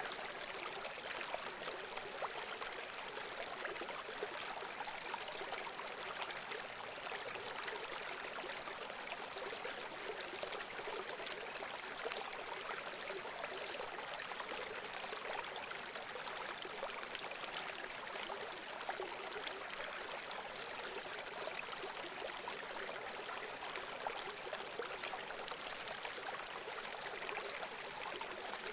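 Running water flowing steadily: an even rush with many small splashes.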